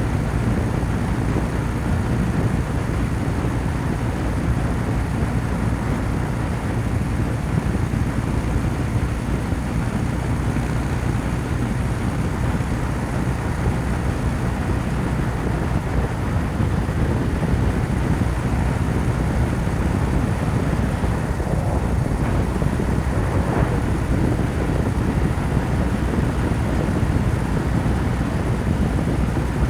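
Kawasaki W800's air-cooled parallel-twin engine running steadily at highway cruise, with an even, unchanging drone.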